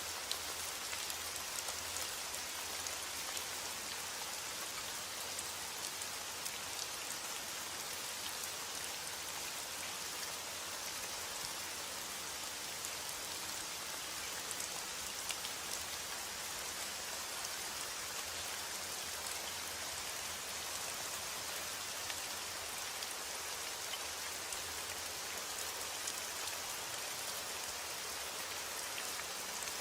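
Steady rain falling on a surface, an even hiss sprinkled with the small ticks of individual raindrops.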